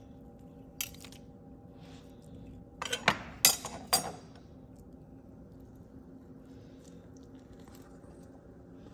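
Kitchen clatter of dishes and utensils: one click, then a quick run of sharp clinks and knocks about three seconds in, over a steady faint hum.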